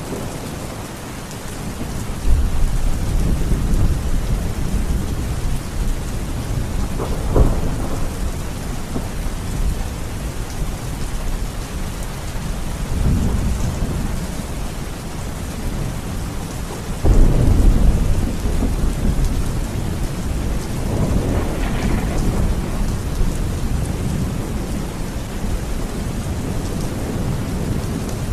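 Thunderstorm: steady rain with several rolls of thunder. A sharp crack comes about a quarter of the way in, and the heaviest rumble breaks in suddenly about two-thirds through, followed by another that swells and fades.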